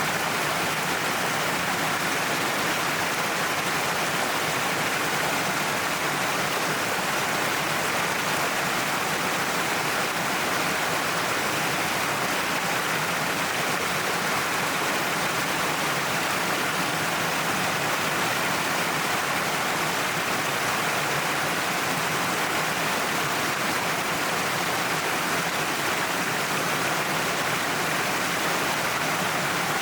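Natural waterfall: a steady, unbroken rush of falling water that does not change.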